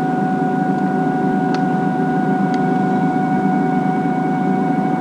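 HO-scale model train running along the track: a steady electric-motor hum and whine with wheel rumble, and a few faint clicks.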